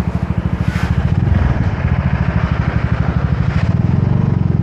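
Small motorbike engine running with a fast, even pulse, picking up speed about a second in as the bike gets under way.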